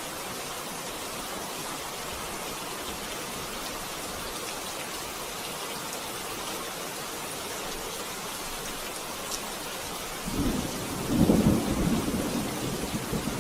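Steady rain falling, with a low rumble of thunder starting about ten seconds in, growing loudest a second later and rolling on to the end.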